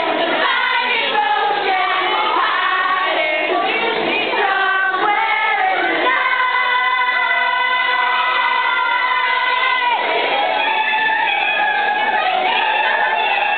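A group of young people singing loudly together, holding one long note for about four seconds in the middle.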